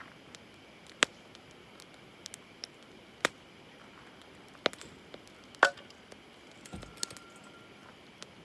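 Campfire crackling: a few sharp, irregular pops of burning wood, spaced a second or two apart.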